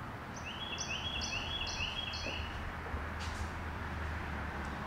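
A bird sings a quick run of about five repeated high notes in the first half, over a steady low hum.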